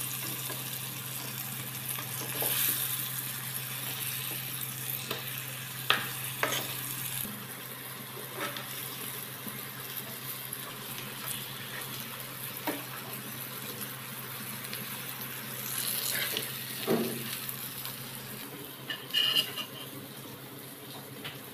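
Gram-flour-coated gourd slices sizzling as they shallow-fry in oil in a pan, with scattered clinks and scrapes of a metal perforated skimmer against the pan as the slices are turned and lifted out. A steady low hum runs underneath and stops about seven seconds in.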